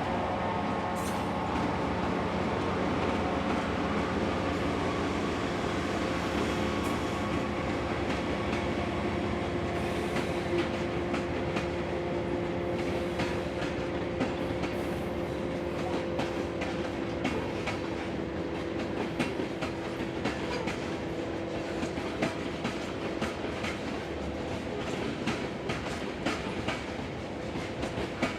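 Norfolk Southern freight train led by diesel locomotive NS 4004 rolling past. The locomotive's engine hum fades during the first half, then the wheels click steadily over the rail joints.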